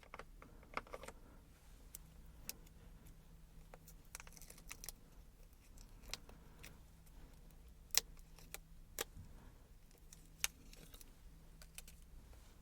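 Scattered light clicks and taps of small plastic gouache paint pots being handled and opened, with a few sharper clicks around the middle. A faint steady low hum runs underneath from about two seconds in.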